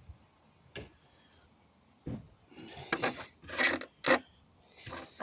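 A string of knocks, clinks and rattling clatter from pallet planks and loose nails being handled, the loudest about three and a half to four seconds in.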